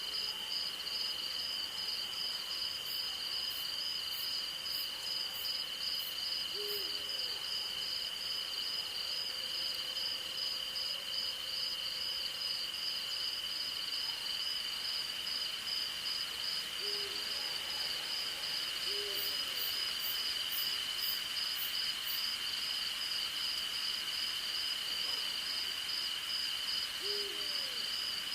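A night insect chorus of crickets: one steady high trill and a faster pulsing chirp just above it. An owl gives a few short, low hoots spread across the stretch.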